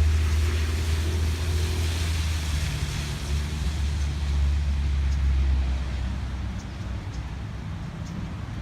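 Steady rain hiss under a low vehicle rumble; the rumble fades about six seconds in, leaving the rain and a few faint drop ticks.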